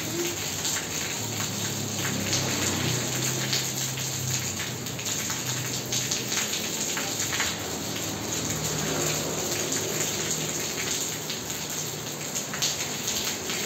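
Steady rain falling on a tiled courtyard floor, a continuous hiss full of individual drop splashes.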